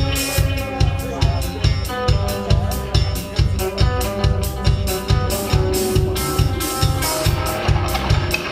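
Live band music: an instrumental passage with a steady, driving drum beat, bass and guitar, and no singing.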